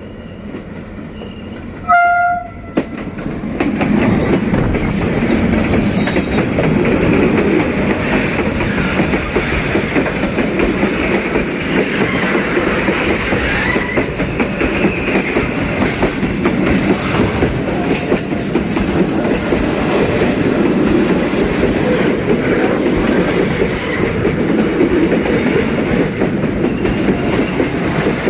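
Freight train double-headed by diesel locomotives D18E-601 and D11H-345: one short horn blast about two seconds in, then the train's steady running noise as it goes by, with wheels clicking over the rails.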